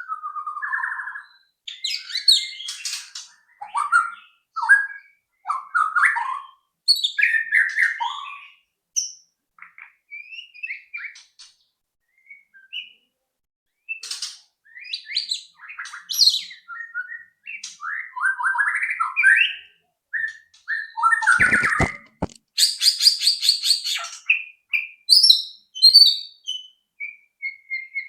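White-rumped shama (murai batu) singing a varied run of whistled phrases and chattering notes with short pauses between them, including a fast rattling series about three quarters of the way through. A brief low thud comes just before the rattle.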